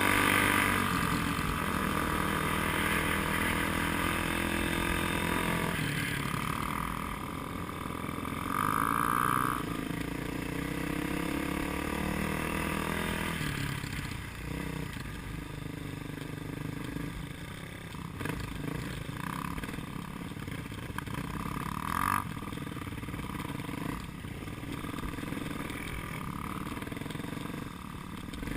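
A vehicle engine whose pitch sweeps down over the first few seconds as it slows or passes, then settles into quieter, lower running. A short high tone sounds about nine seconds in.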